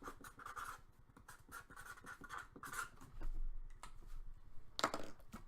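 Scratchy rustling of trading cards and their packaging being handled, in short quick strokes, with a louder sharp rustle near the end.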